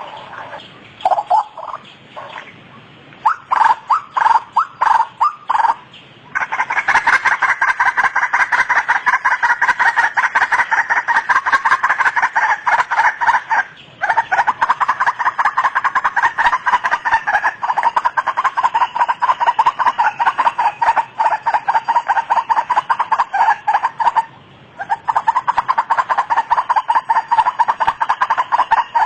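White-breasted waterhen calling. A few separate calls come in the first six seconds, then a fast, unbroken run of repeated calls, with two short breaks.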